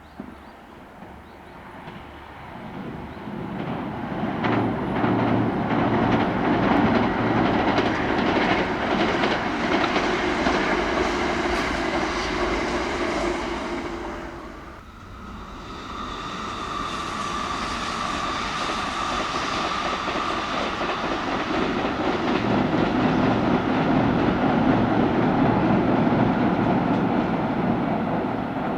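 Kintetsu electric train passing at speed, rising to a loud rumble with wheels clacking over rail joints. The sound drops away sharply about halfway, then a second pass builds up, with a steady whine over the rumble.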